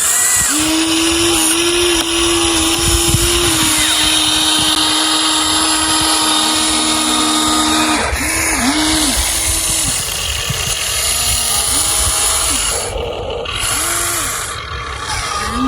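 Electric motors of a Huina radio-controlled toy excavator whining, in one long run of several seconds and then in short spells with gaps between, the pitch dropping a little now and then as the machine works.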